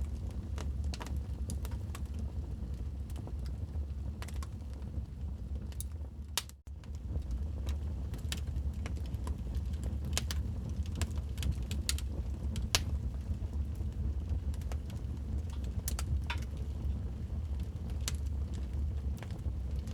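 Wood fire crackling in a fireplace: irregular sharp pops and snaps over a steady low rumble. The sound briefly drops out about six and a half seconds in.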